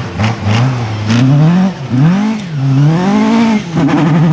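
Rally car engine revving hard, its pitch climbing and dropping sharply several times as the car is driven through the stage. A few sharp cracks come in the first second, and the note settles steadier near the end.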